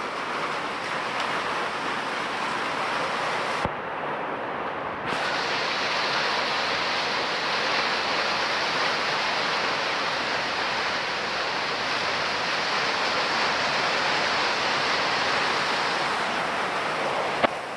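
Heavy rain pouring down steadily, an even hiss that dulls briefly about four seconds in, with a sharp click near the end.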